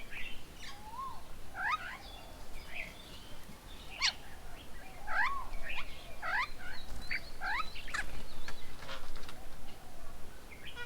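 Several birds calling and chattering: a run of short upward-sweeping and arched notes, busier from about four seconds in.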